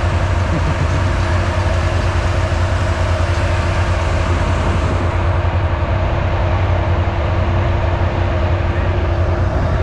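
ATV engine running steadily at idle, a loud even low rumble with a constant hum above it.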